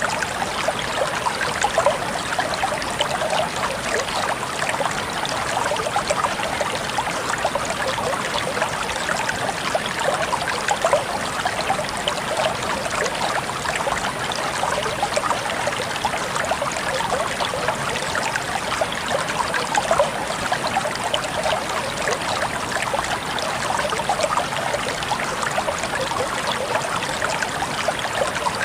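Water flowing and trickling steadily, a continuous bubbling splash with no pauses.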